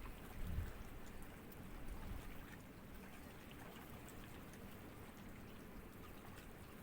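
Small sea ripples lapping gently at the shore: a faint, steady wash of water with light splashes and a low surge about half a second in.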